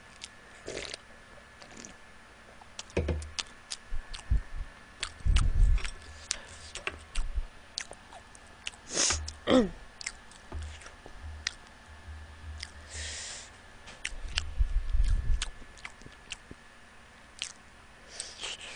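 Close-miked eating sounds: chewing and wet mouth noises, with many scattered sharp clicks and a few dull low knocks.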